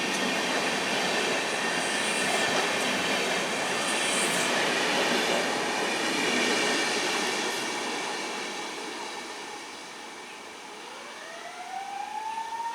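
Train passing close at speed: a loud rush of wheels on rail with faint high steady squealing tones, fading away after about eight seconds. Near the end a rising wail begins.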